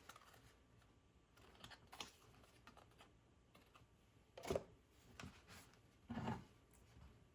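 A few soft handling clicks and rustles over near silence, the loudest about four and a half seconds in and a longer rustle about six seconds in.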